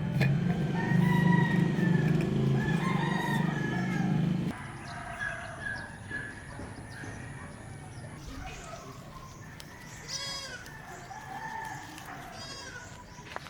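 Roosters crowing, at first over a loud low steady hum that stops abruptly about four and a half seconds in; two more harsh crows come near the end.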